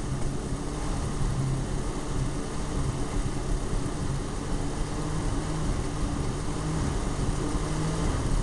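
1968 Ford F100's 240 inline-six engine running through a straight-piped Flowmaster exhaust on freshly fitted ignition points. It is not hitting right, which the owner puts down to points that need readjusting.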